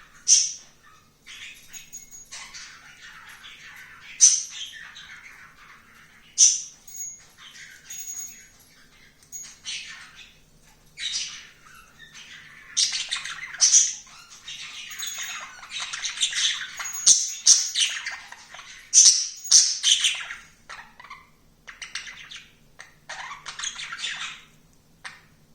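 A pet bird squeaking: a long, irregular run of short, high-pitched squeaks and chirps, broken every few seconds by a sharper, louder call.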